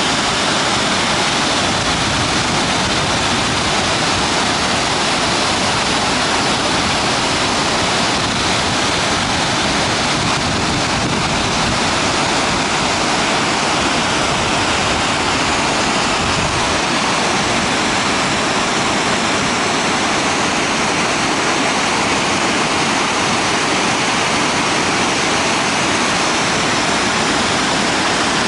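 Fukiware Falls rushing, a steady, loud roar of falling and churning river water that never lets up.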